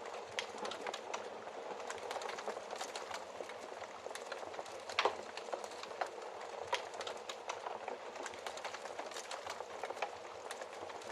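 Wood fire crackling in a fireplace: a steady hiss with irregular sharp pops, the loudest about five seconds in.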